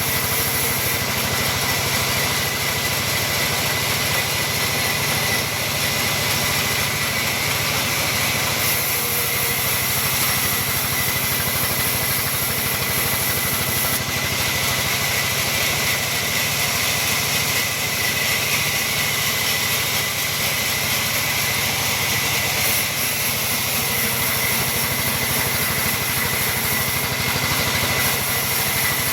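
Sawmill machinery sawing mahogany timber, running steadily without pause or change.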